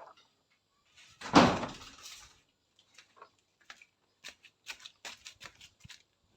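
Toys and objects being handled: one loud thump about a second in, then a run of light clicks and taps.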